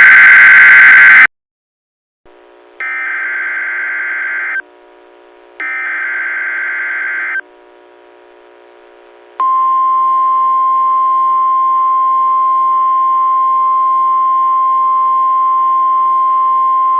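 NOAA Weather Radio alert signals: short raspy data bursts of the SAME header, three in all with gaps between, the first cut off about a second in. Then, about nine seconds in, the long steady single-pitch warning alarm tone, announcing a severe thunderstorm watch.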